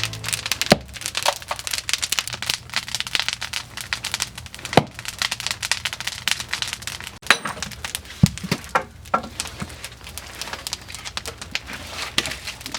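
Firewood burning in a wood-fired kiln, crackling densely and unevenly with a few louder sharp pops.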